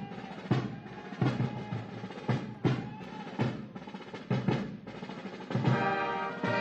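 Band music with snare and bass drum strokes and brief rolls, and held brass chords coming back in near the end.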